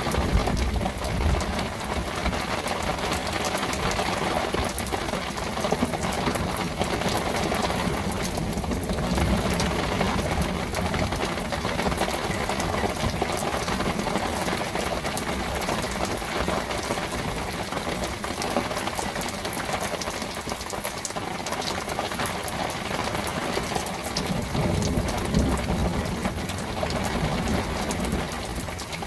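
Steady torrential rain falling, with many individual drops ticking close by.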